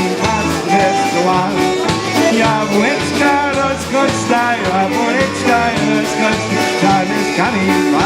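Polka band playing a polka, with a steady bouncing beat under the melody.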